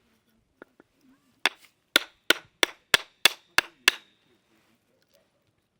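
A wood-splitting tool being struck eight times in quick succession, about three blows a second, metal hitting metal with a short bright ring after each blow.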